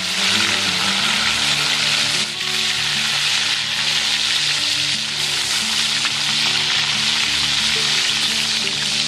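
Slabs of tofu deep-frying in hot oil in a wok: a loud, steady sizzle that starts as the tofu goes into the oil.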